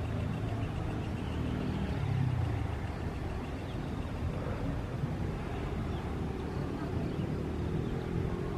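Diesel-hauled passenger train rolling slowly into a station: a steady low rumble of engine and wheels on rail, its engine hum easing after about two and a half seconds.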